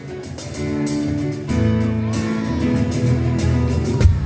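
Live band music at a soundcheck: strummed guitar chords over a steady bass line, with a low drum hit coming in near the end.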